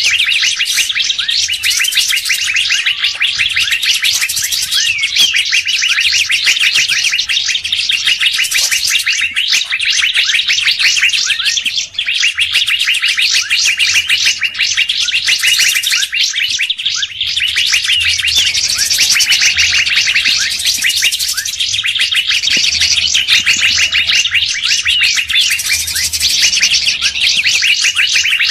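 Bird-lure recording of a songbird chattering in fast runs of high, rapidly repeated chirps, each run a few seconds long with short breaks between.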